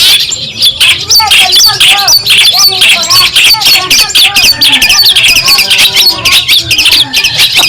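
Long-tailed shrike (cendet) singing: a loud, continuous stream of rapid, sharp chattering notes, mixed with lower whistled notes.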